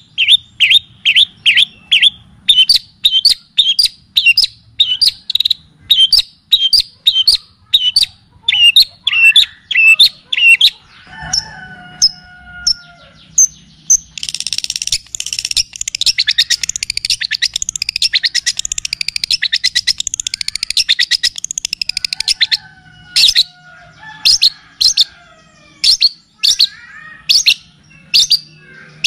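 Recorded songbird song, the kapas tembak and cililin songs used as tutoring audio for cendet shrikes: sharp repeated chirps about two a second, a few lower whistles, then a long dense rapid trill of about eight seconds, and sharp repeated chirps again near the end, over a faint low hum.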